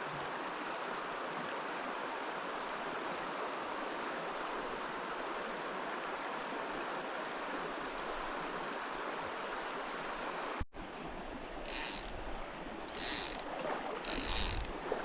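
Mountain stream water running in a steady rush. About ten and a half seconds in it cuts off abruptly to quieter running water, with several short hissing sounds near the end.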